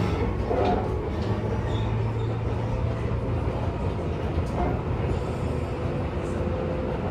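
Tobu 10000 series electric commuter train running at speed, heard from inside the car: a steady rumble of wheels on rail under a constant low drone.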